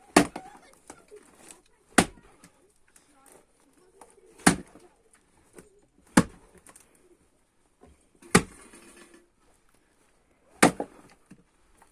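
Splitting maul striking dry ash logs on the ground, six sharp chops about two seconds apart as firewood is split.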